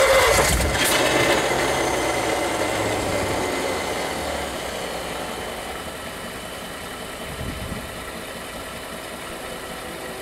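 1959 Ford Custom 300's 292 V8 catching and running on its first start after 46 years, loud with a couple of sharp bangs in the first second, then slowing and settling to a steadier, quieter idle over the next several seconds.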